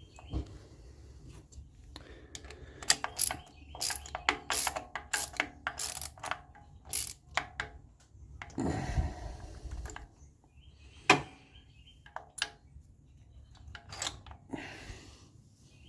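Hand ratchet wrench clicking in quick strokes, about three clicks a second, as it turns a spark plug out or in on a 2008 Toyota Camry's engine. About halfway through there is a longer rustle of handling, and a few single clicks follow later.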